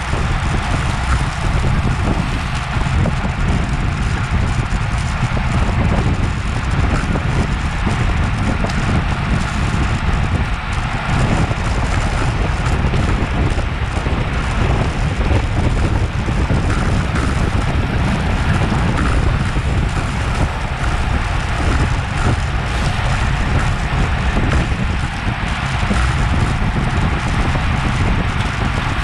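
Wind rushing over an action camera's microphone on a road bicycle at race speed: a steady, loud, low buffeting rush with no break.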